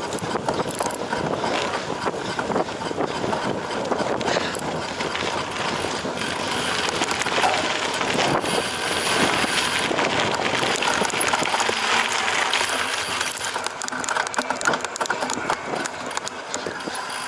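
Cyclocross bike rattling over rough ground during a race: a steady rush of tyre noise with many sharp clicks and knocks from the bike.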